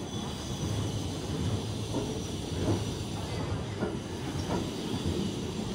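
Indian Railways passenger coaches rolling past as the train pulls out: a steady low rumble of wheels on rails, with clacks over the rail joints every second or so.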